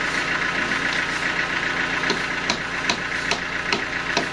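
Sawmill machinery running steadily with an engine-like hum. About halfway through, a regular knock starts, roughly two to three times a second.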